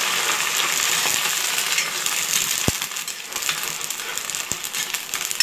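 Freshly added bhringraj leaf paste sizzling in hot mustard oil in a kadai as it is stirred with a spatula. The sizzle is loudest at first and dies down. About halfway through, the spatula knocks once against the pan.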